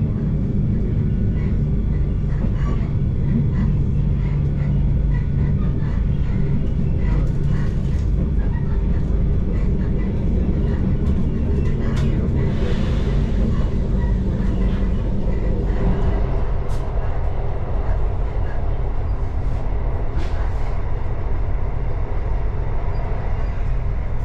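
Steady running noise of a regional passenger train heard from inside the carriage: a continuous low rumble of wheels on rails with faint scattered clicks. The rumble changes character about sixteen seconds in.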